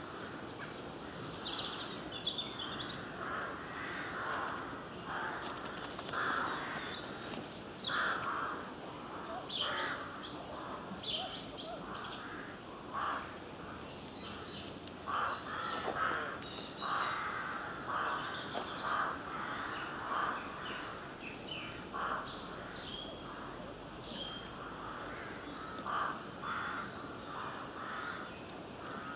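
Woodland birds calling throughout: many short, harsh, crow-like calls over higher chirping from smaller birds.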